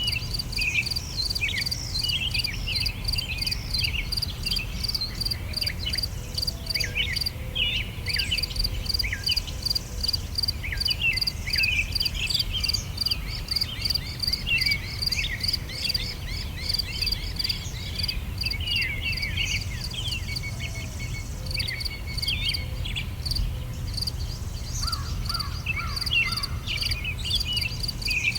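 Songbirds chirping and twittering in many short rising and falling notes over the fast, even pulsing of crickets, with a steady low rumble underneath.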